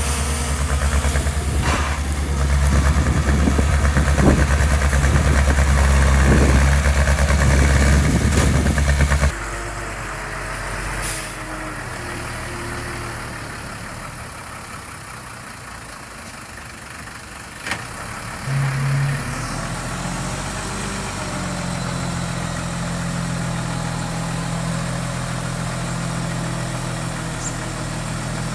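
Diesel engine of heavy construction machinery running: loud and deep for about the first nine seconds, then an abrupt cut to a quieter engine idling, with a short click and a brief tone a little past halfway.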